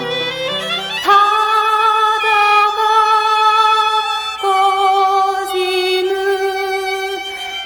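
Female voice singing a slow Korean folk song in long held notes with vibrato, gliding up into the first note, over light acoustic accompaniment whose low plucked notes stop about a second in. Playback of a 1972 stereo LP.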